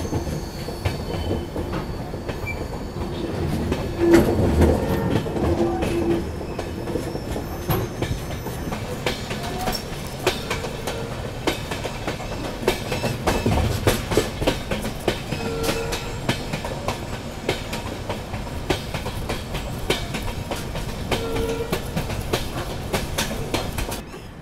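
Passenger train running on the rails, heard from on board: a steady rumble of the coaches with the clickety-clack of wheels knocking over rail joints.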